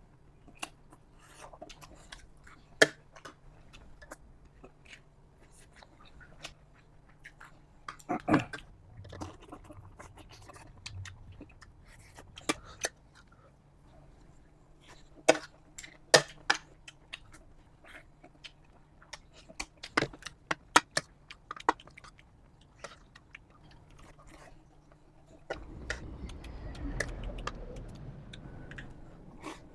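Close-up eating of crab fried-egg rice: chewing with scattered sharp clicks and taps, and a few seconds of denser rustling noise near the end.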